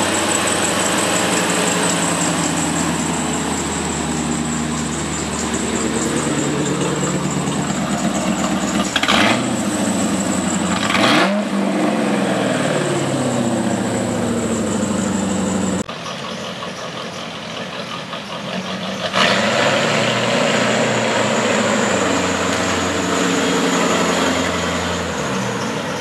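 An engine running, its pitch rising and falling as it is revved a few times, with a quieter stretch about two-thirds of the way through.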